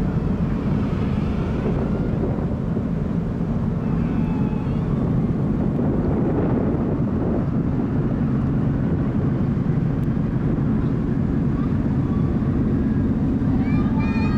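Car ferry Akatsuki Maru's engines running, a steady low drone heard from the deck while the ship leaves port. Short high-pitched rising calls start near the end.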